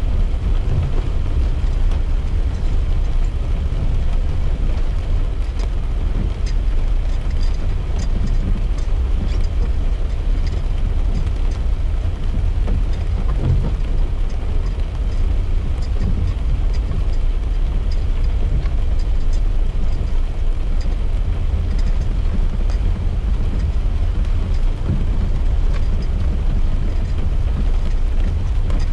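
Steady low road and engine rumble heard from inside a moving car, with light rain hitting the glass as scattered faint ticks.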